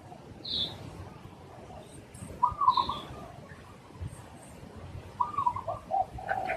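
Spotted dove cooing: two phrases of several notes, a couple of seconds apart, with a few short higher chirps from another bird.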